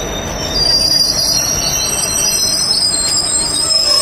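Passenger coaches of the Doon Express rolling past close by, with a steady rumble and thin, high-pitched wheel squeal against the rails.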